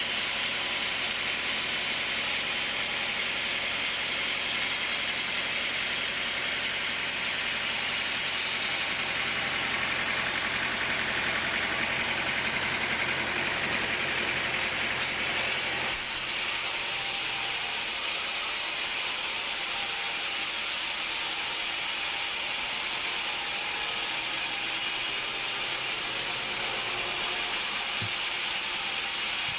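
Sawmill machinery running with a steady, hissing mechanical noise. About halfway through, the low rumble underneath drops away and the hiss carries on.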